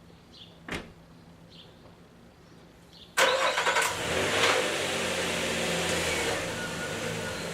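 A sharp click under a second in, then a car engine starts with a sudden loud burst about three seconds in and settles into a steady idle.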